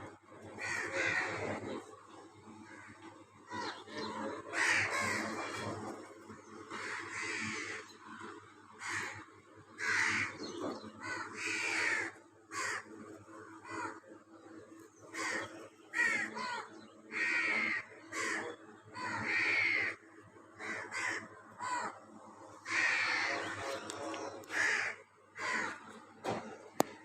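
Birds calling over and over, each call lasting about half a second to a second, coming in quick irregular succession.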